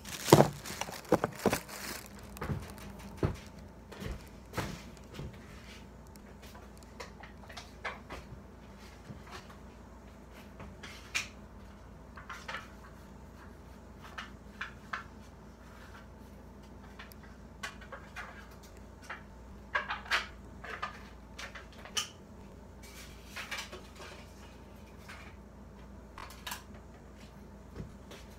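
Irregular clinks, taps and scrapes of a utensil against a dish and a frosting container as frosting is spread on a microwave brownie. The loudest clatter comes just after the start.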